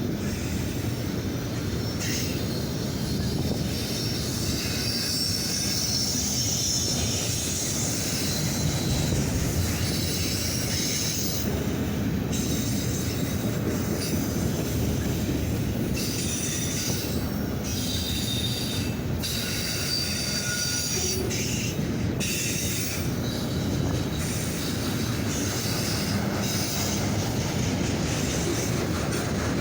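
Freight train of auto rack cars rolling past: a steady rumble of steel wheels on rail, with high-pitched wheel squeal that comes and goes.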